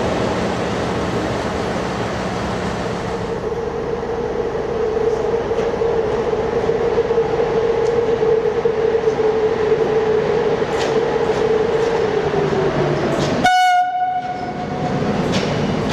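Passenger train being shunted through the station: a steady locomotive hum over rail noise that dips slightly in pitch near the end. About three-quarters of the way through, a short, sharp horn blast sounds.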